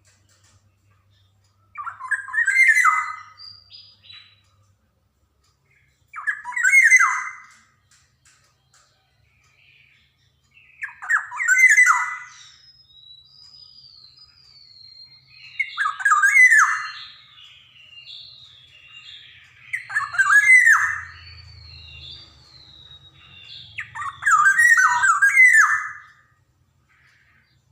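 Black-naped oriole (Javan kepodang) calling: six loud, harsh phrases about every four to five seconds, each about a second long. Fainter high whistled notes run between them through the middle of the stretch.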